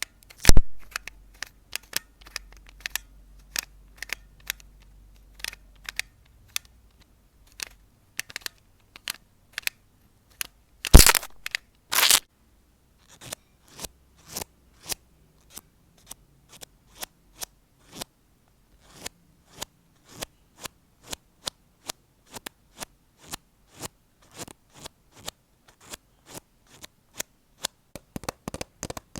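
Close-miked ASMR trigger sounds: a long run of short, sharp clicks or snips, about one or two a second. Louder crackling strokes come about half a second in and again around eleven and twelve seconds.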